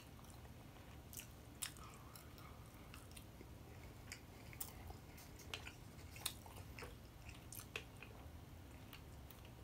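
A person chewing food close to the microphone, faint, with irregular small sharp mouth clicks every second or so.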